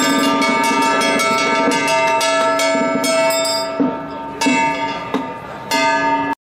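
Temple procession music: a reedy wind instrument over rapidly struck ringing metal percussion. About four seconds in it thins to a few separate strikes, then the sound cuts off suddenly.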